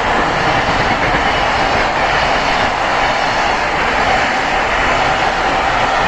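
Freight train of wagons running past on the rails, a loud, steady noise of wheels on track that holds level throughout.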